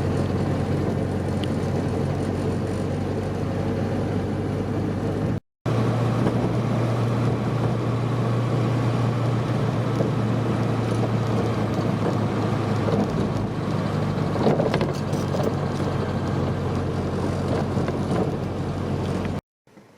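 Classic car's engine droning steadily with road noise while driving. The sound cuts off sharply twice, splitting it into separate clips.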